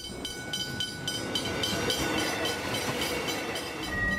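Electric suburban train running past along the platform: a steady rumble with the wheels clicking over rail joints, the clicks spacing out as it slows, under a steady whine. A higher tone comes in near the end.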